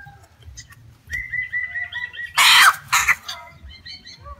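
A bird trills rapidly for about a second, a fast string of high notes, then a sudden loud harsh burst of noise cuts in, with a smaller one just after.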